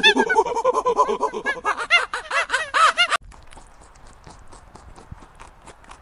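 A group of monkeys chattering: a fast, overlapping run of short, high calls that rise and fall, cut off abruptly about three seconds in. After that only faint scattered clicks are heard.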